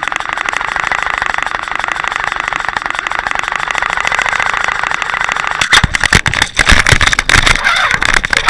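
Steady drone of the towing vessel's motor and water rush, heard through an underwater camera housing being trolled. About two-thirds of the way in it breaks up into irregular knocks and water noise.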